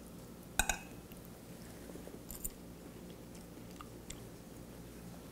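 Faint chewing and mouth sounds of a person eating a forkful of shrimp scampi pasta. A fork clinks once on a plate just after half a second in, with a few small ticks later.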